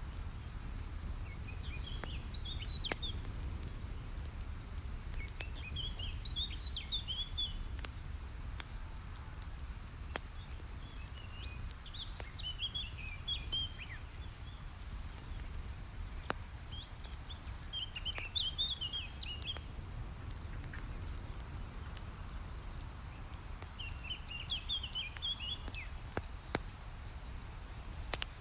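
Campfire crackling with scattered sharp pops over a low steady rumble, while a songbird sings a short twittering phrase about every six seconds, five times.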